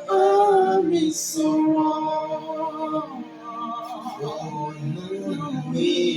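Worship music with a woman singing held, sliding notes over a soft accompaniment.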